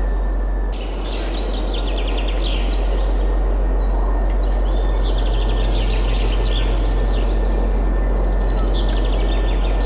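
Small songbirds singing quick trilled phrases in bursts every few seconds over a steady rush of wind.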